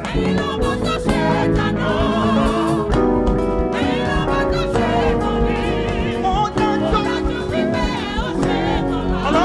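Live gospel praise music: a choir and congregation singing with a band, sustained chords under wavering sung lines.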